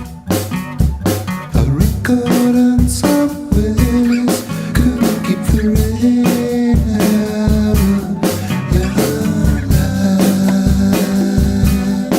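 A band playing a blues-flavoured song with guitar and a drum kit keeping a steady beat.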